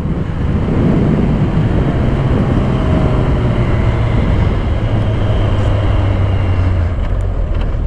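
Suzuki sportbike engine running as the motorcycle slows from about 90 to 55 km/h, its note easing lower, under steady wind rush on the microphone.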